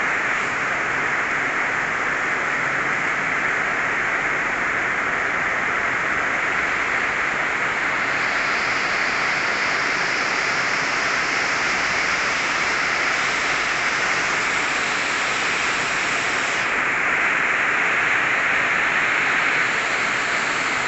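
Heavy rain pouring down, a loud steady hiss. The hiss turns brighter for several seconds in the middle.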